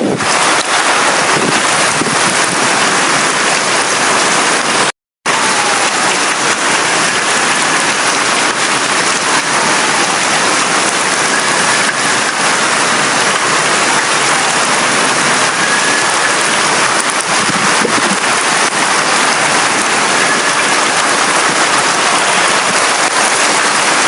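Heavy rain falling steadily, an even hiss of dense drops, with a brief total dropout about five seconds in.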